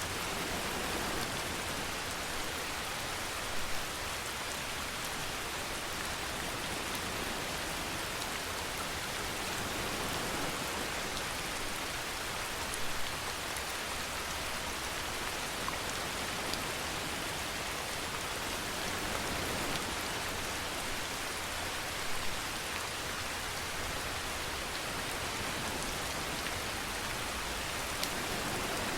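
Steady rainfall, an even hiss of drops landing on a surface, with a few brief louder drops or splashes now and then.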